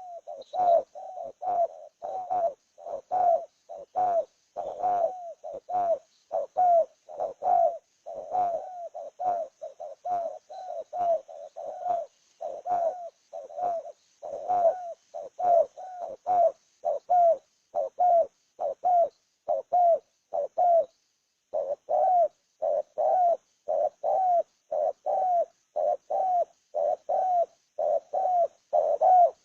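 A bird calling with a short, low note repeated over and over, about twice a second, with one brief pause about two-thirds of the way through.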